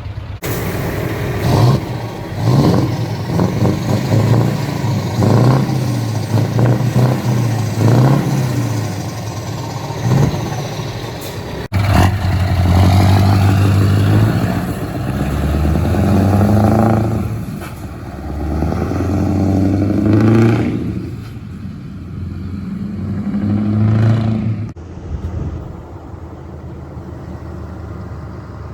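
Scania V8 truck engine on open exhaust pipes, revved in a string of short, sharp throttle blips. About twelve seconds in the sound switches suddenly to longer revs that rise and fall several times, easing off near the end.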